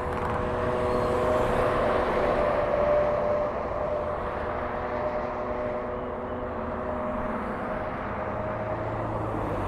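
Steady engine drone with a few steady humming tones that slowly fade after the middle, over low wind rumble on the microphone.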